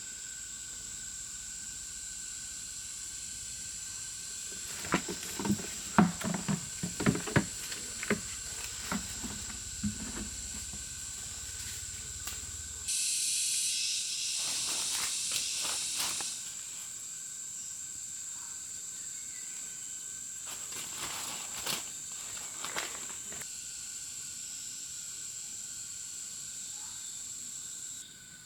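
Insects droning steadily at a high pitch, with a run of sharp knocks and rustles about a third of the way in, a few seconds of loud hissing noise near the middle, and a few lighter knocks later.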